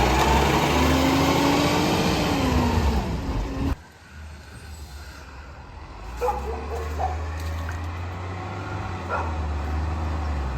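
Garbage truck engine running with a whine that rises and then falls in pitch, stopping suddenly about four seconds in. After a short quieter stretch, a truck engine idles with a low steady hum.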